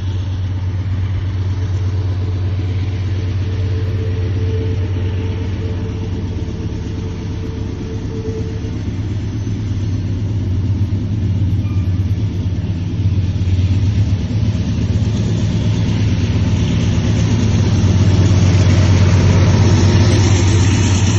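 Diesel locomotives working hard hauling an empty grain train up a grade: a steady, deep engine rumble that grows louder over the last few seconds.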